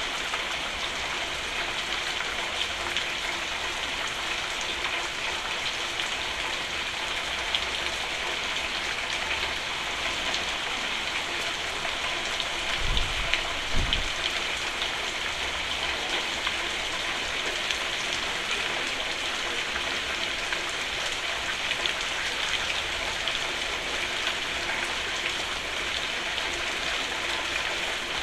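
Steady heavy rain drumming on a roof, an even hiss of many drops. About halfway through there is a brief low rumble or thud, twice in quick succession.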